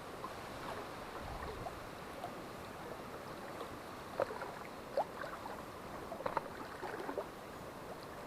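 Steady wind and water lapping at the bank, with a few faint short ticks in the second half.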